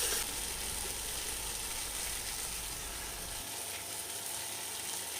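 Thick spiced masala paste sizzling steadily in a pan.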